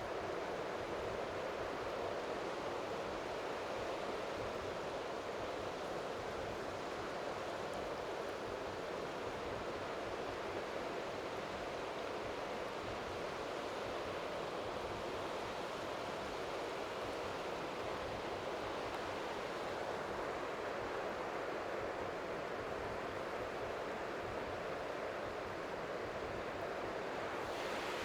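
Strong sea wind on the microphone: a steady rushing noise with a flickering, buffeting low end, and faint waves lapping on the shore underneath.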